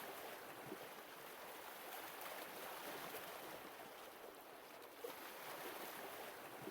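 Faint sea waves washing as a soft, steady hiss that gently swells and eases.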